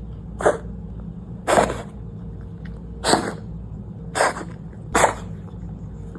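A cat sneezing five times in a row, each sneeze short and sharp, a second or so apart.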